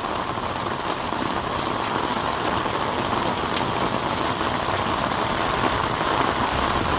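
Heavy rain pouring down, a steady dense hiss and patter of drops on surfaces that grows slightly louder over the stretch.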